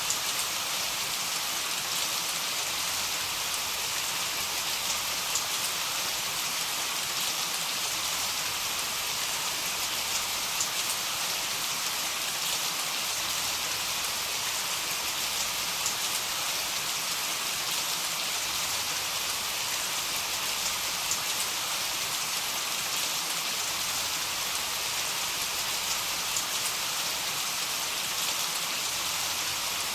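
Heavy rain falling steadily, a dense even hiss with occasional sharper drops ticking close by.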